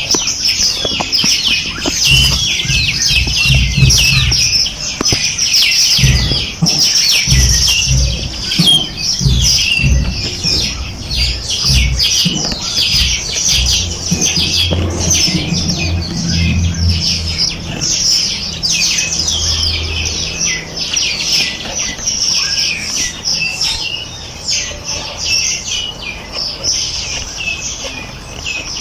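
Many songbirds chirping and singing at once, a dense, busy chorus of quick high notes. For most of the first two-thirds a low, uneven rumble sits underneath, then fades.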